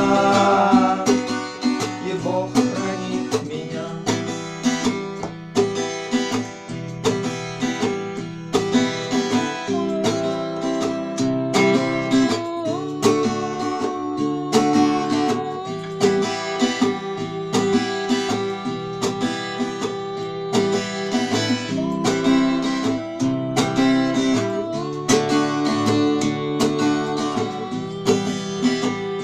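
Acoustic guitar strumming chords in a steady rhythm, the instrumental outro of a song with no singing.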